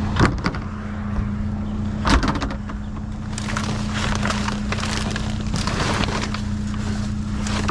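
Rummaging through a box of discarded items: two sharp knocks, then a few seconds of rustling and clattering, over the steady hum of an idling vehicle engine.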